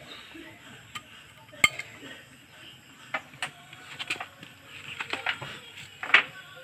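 Irregular sharp metallic clinks and knocks of hand tools and metal parts being handled, the loudest about a second and a half in and a quick cluster near the end.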